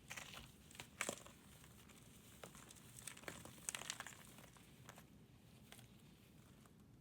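Faint crackling crunches of a brittle material being crumbled, in scattered bursts: the sharpest about a second in, with a cluster of crackles between three and four seconds.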